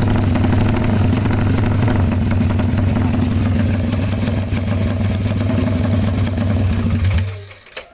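Motorcycle fitted with a BMS X-One aftermarket exhaust idling steadily, a deep, even exhaust note, then dying away about seven seconds in.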